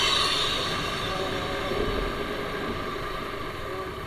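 TVS Apache RR310's single-cylinder engine running steadily as the motorcycle is ridden along, with road and rushing-air noise.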